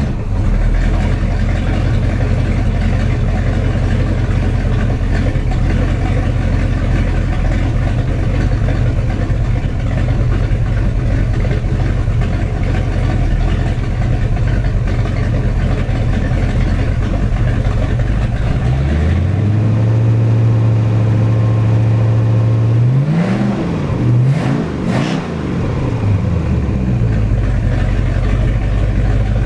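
Rebuilt 7.4 L Mercruiser big-block V8 marine inboard running on a test run, freshly started and idling steadily. About two-thirds of the way through it is revved up and held. It is then blipped up and down a few times in quick succession before dropping back to idle.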